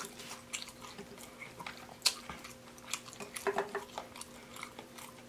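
Soft mouth sounds of a person chewing fried food, with scattered small wet clicks and smacks, the sharpest about two seconds in.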